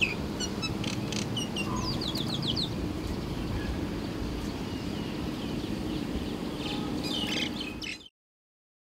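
Birds chirping: a series of short high chirps and a quick run of falling notes in the first few seconds, more chirps near the end, over steady low background noise. All sound stops abruptly about eight seconds in.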